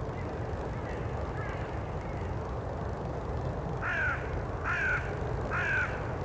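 A bird calling, three short harsh calls about a second apart after two fainter ones, over a steady low background rumble.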